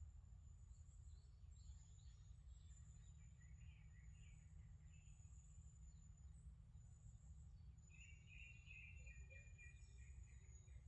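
Faint forest ambience: small birds chirping on and off, with a longer warbling call about eight seconds in, over a thin, high, steady buzz and a low rumble.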